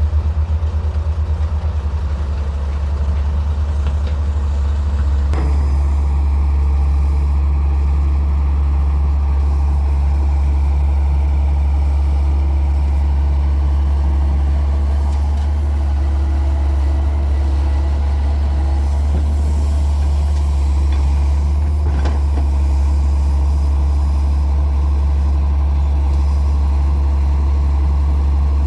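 Heavy diesel machinery running steadily with a loud, constant low drone, with a sharp knock about five seconds in and another past the two-thirds mark.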